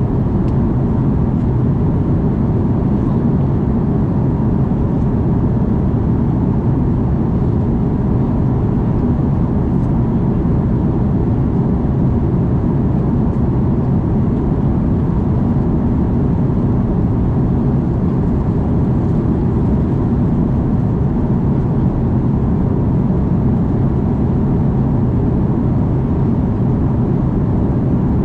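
Airbus A330 airliner noise heard from inside the cabin: a loud, steady low rumble of the engines with no change in pitch or level.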